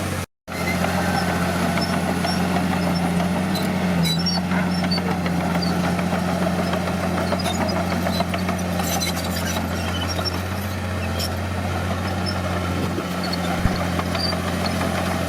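Bulldozer's diesel engine running at a steady speed, with a few light clanks and clicks over it. The sound drops out for a split second just after the start.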